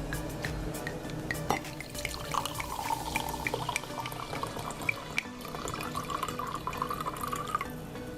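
Water running and splashing, as from a tap into a sink, with many small clinks and taps; the running water starts about two seconds in and stops shortly before the end.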